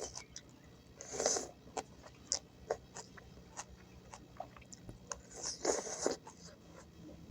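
A person chewing and crunching food close to the microphone: wet mouth clicks throughout, with louder crunches about a second in and again around six seconds.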